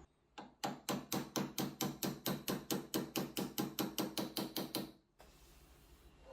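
A rapid, even series of sharp knocks or clicks, about four to five a second for roughly four and a half seconds, stopping abruptly.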